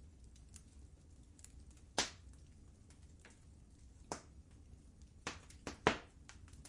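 Wood fire crackling in a fireplace: irregular sharp pops and snaps, a loud one about two seconds in and a cluster of the loudest near the end, over a low steady rumble.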